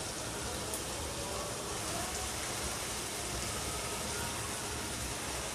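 Bhuna chicken frying in oil in an open pot, a steady, even sizzle.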